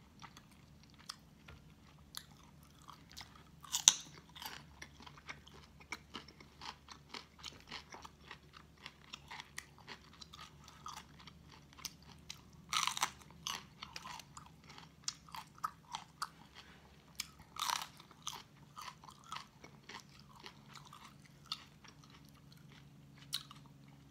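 Close-up crunching and chewing of raw cucumber and a green chili pepper: many small wet crunches, with three louder crisp bites spread through.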